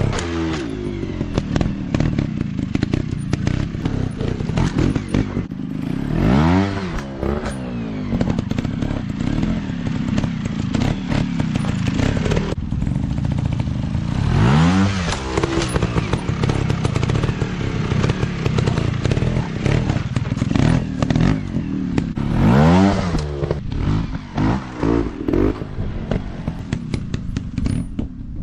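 Off-road dirt bike engine running under load, its revs swinging up and down sharply three times as the throttle is opened and closed. Scattered knocks and clatter come through along with it.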